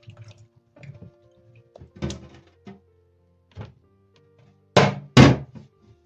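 Soft background music with several household thuds and knocks over it, the loudest two coming close together about five seconds in.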